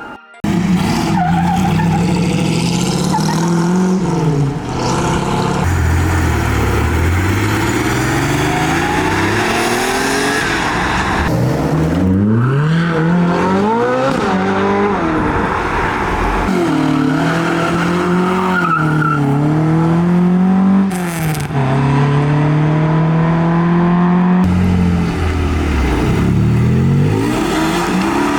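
Supercar engines revving hard and accelerating away, their pitch climbing and dropping again and again as they rev and shift, with abrupt switches from one car to the next.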